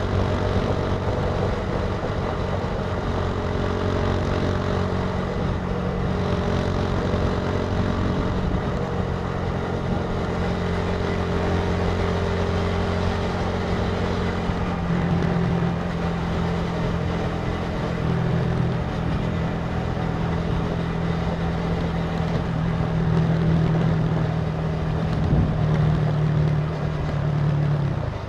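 Italika TC300 motorcycle engine running under way, a steady engine note over wind and road noise. The note shifts about halfway through and falls away just before the end.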